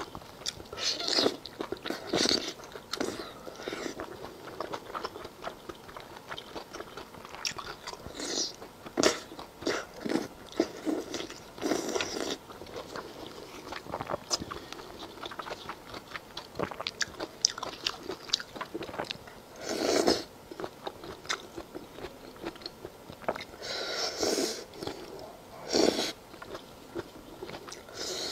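Close-miked eating of spicy skewered food: irregular biting, wet chewing clicks and crunches, with a few louder bursts.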